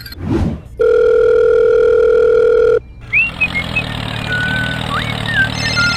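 A loud, steady electronic beep lasting about two seconds, like a dial tone, after a brief whoosh. It is followed by a low steady motor hum with a few quick whistling chirps.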